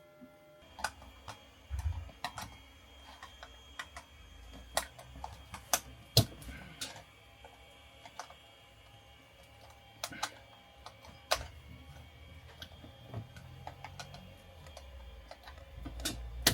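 Scattered light clicks and taps at irregular intervals, the sounds of handling wooden ceiling panels and small tools.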